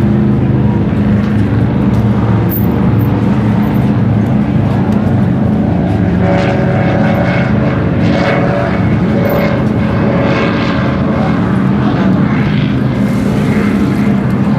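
Performance powerboat engines running with a loud, steady low drone. A second, higher engine note joins for a few seconds in the middle.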